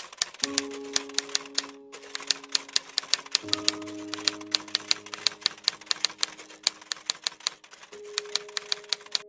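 Typewriter typing sound effect: rapid sharp key clicks, about six a second with a brief pause near 2 s in, over soft background music of held notes that change a few times.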